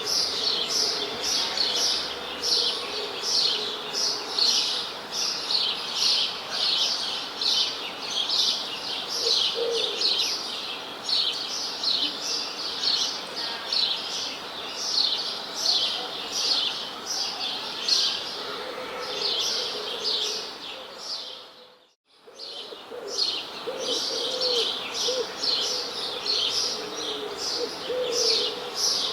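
Birds chirping in a dense, rapid chorus of high chirps, with a few lower calls mixed in. The sound fades briefly almost to silence about two-thirds of the way through, then resumes.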